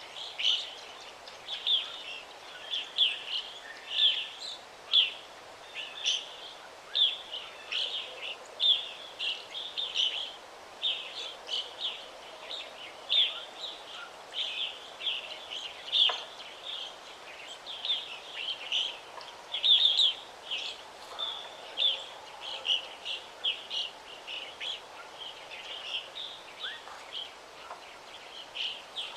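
Songbirds chirping and calling in a forest, short high notes coming several times a second without a break, over a faint steady background hiss.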